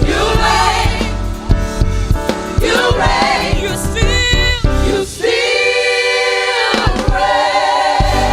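Gospel choir singing with a live band. Past the middle the drums and bass drop out under a long held chord, then come back in near the end.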